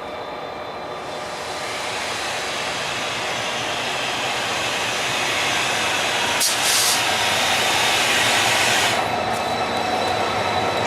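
A train running through the station: the rail noise swells from about a second in and stays loud until it drops about nine seconds in. There is a short, sharp hiss about six and a half seconds in.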